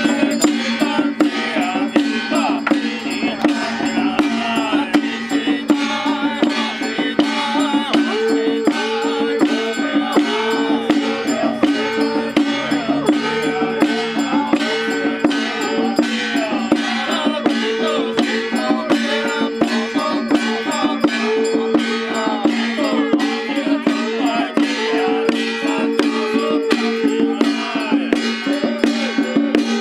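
Temple procession band playing: metal percussion struck in a steady beat of about two strikes a second, over a sustained low tone, with short repeated higher notes joining in.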